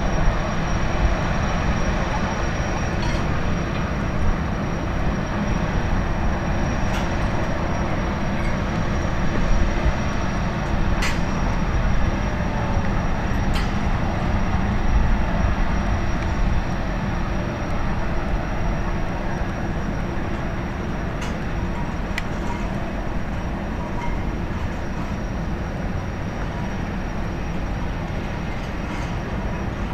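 High-speed jetfoil under way: a steady, loud rumble of its engines and water jets, with a thin high whine held throughout and a few faint clicks.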